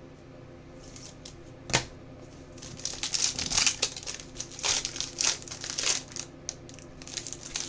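Plastic packaging crinkling and rustling as trading cards are handled, with one sharp click just under two seconds in and the rustling busiest in the middle.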